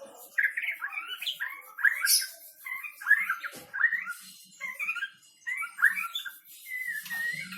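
White-rumped shama singing a fast run of varied whistled phrases in short bursts, ending in a longer held whistle.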